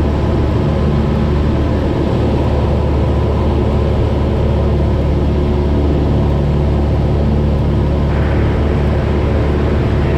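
Cessna 172's piston engine and propeller droning steadily in cruise flight, heard inside the cabin.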